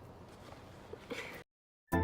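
Faint steady background hum with a brief faint sound about a second in, cut off abruptly by an edit to dead silence about a second and a half in; electronic music starts right at the end.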